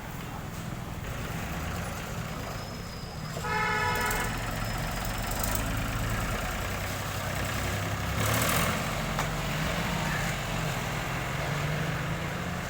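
Tractor diesel engine running steadily, with a vehicle horn sounding once for under a second a little over three seconds in.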